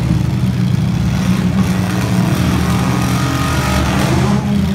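Engines of several mid-size stock demolition derby cars running loud together in a steady drone, with one revving up near the end.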